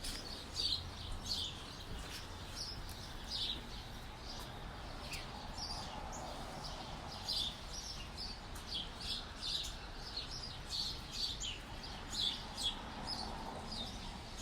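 Songbirds chirping, a steady stream of short high chirps, several a second.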